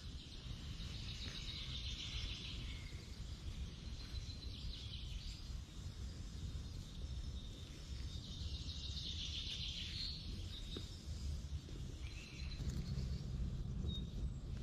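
Forest ambience: small birds trill in three bouts, the longest about a second in and another around eight seconds in, with a few short high chirps near the end, over a steady low rumble.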